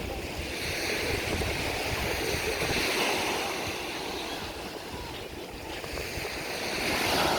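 Sea waves washing onto the beach, swelling and easing twice, with wind buffeting the microphone.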